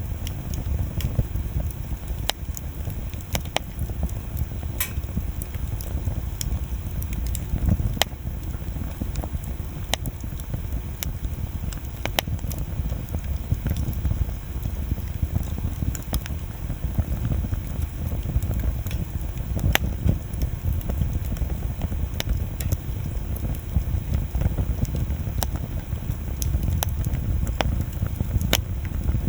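Wood bonfire burning, with irregular sharp crackles and pops every second or so over a steady low rumble.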